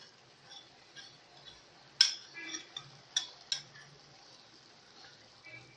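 A spoon and small dishes clinking in a few sharp taps as spices go into the pot, the loudest about two seconds in and three more over the next second and a half.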